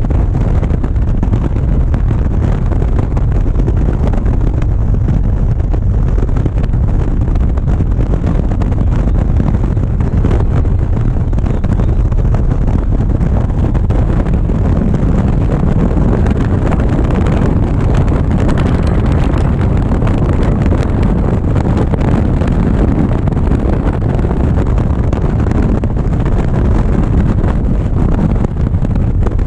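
Steady wind noise on a GoPro microphone mixed with a motorcycle running at cruising speed, loud and even throughout with the energy low down.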